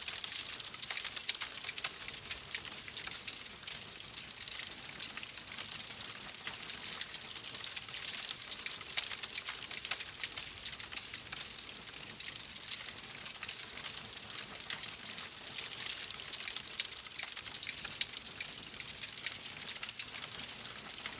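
Wood fire crackling steadily: a continuous hiss dotted with many small, sharp pops and snaps.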